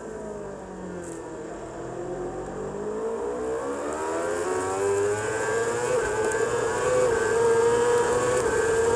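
Racing superbike engine heard from onboard: the revs fall until about a second in, then climb smoothly for about five seconds and hold high under acceleration.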